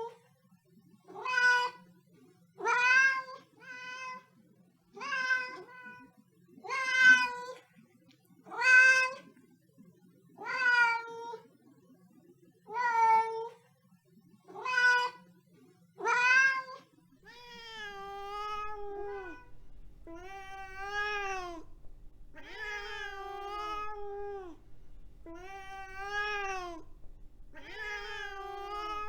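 Siamese cat meowing over and over, loud calls about every two seconds. About two-thirds of the way through, the calls change to longer, lower meows that rise and fall in pitch.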